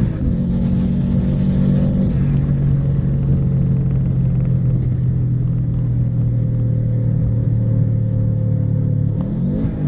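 1996 GC8 Subaru Impreza WRX's turbocharged 2.0-litre flat-four engine and exhaust running hard under load. The engine note drops sharply right at the start and again about two seconds in, as with upshifts, then holds nearly steady. Near the end there is a brief rising sweep in pitch.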